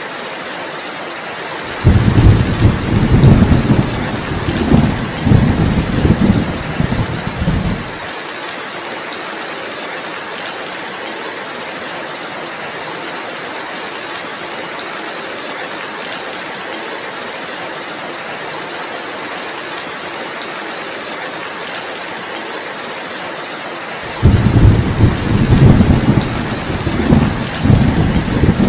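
Steady heavy rain falling, with two long rolls of thunder rumbling over it: one starting about two seconds in and lasting some six seconds, another starting near the end.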